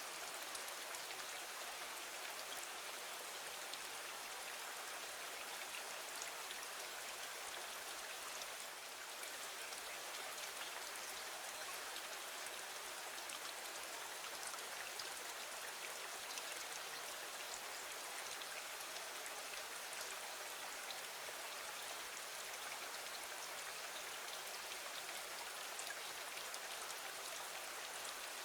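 Steady rain falling against a window: a dense, even hiss dotted with fine ticks of single drops.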